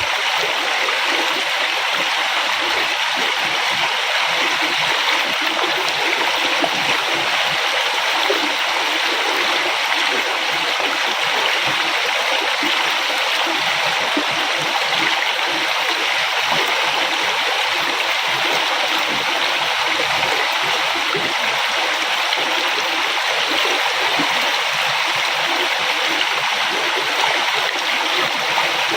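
River water flowing and splashing over rocks in a steady, continuous rush with fine gurgling.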